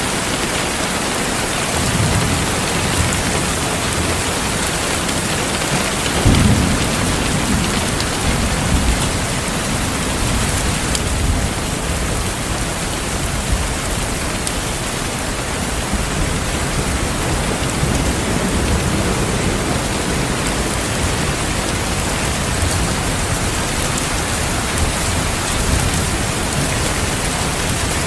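Steady heavy rain with thunder rumbling under it. The loudest roll of thunder comes about six seconds in, and lighter rumbles recur through the rest.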